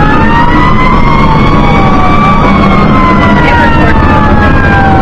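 Fire engine siren wailing, with several tones rising and falling slowly and crossing one another, over the steady low drone of the truck's engine.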